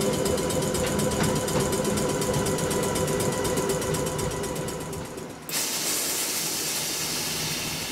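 Electric multiple-unit passenger train running, a steady hum of several motor tones with fine rapid clicking. About five and a half seconds in, the sound cuts abruptly to a steady high hiss.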